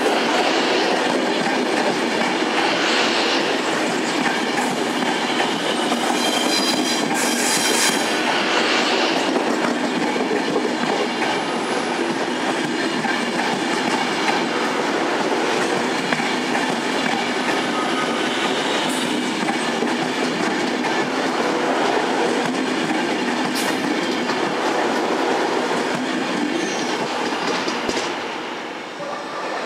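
Virgin Pendolino (Class 390) electric train running past close by: a steady rolling rumble of wheels on rail joints, with brief high wheel squeals a few seconds in. The sound drops near the end as the last coach clears, then starts to rise again.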